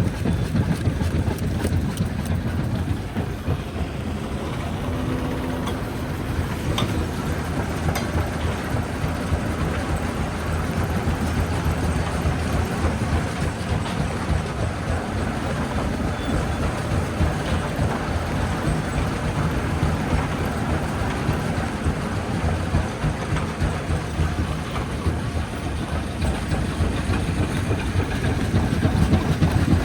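Jaw rock crusher running steadily under load, a continuous low, rough mechanical rumble, with a couple of sharp cracks about seven and eight seconds in.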